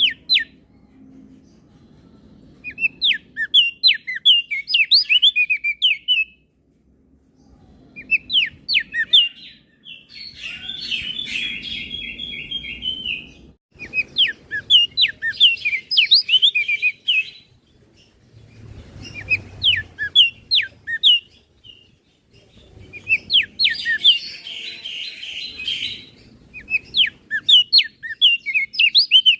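Crested darkeye (opior jambul) singing in bursts of a few seconds of rapid, high chirping notes, separated by short pauses. Two of the phrases, about ten seconds in and near the end, run into a dense buzzy trill.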